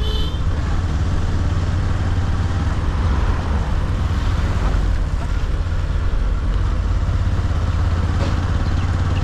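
Motorcycle running steadily at road speed, engine and wind noise together.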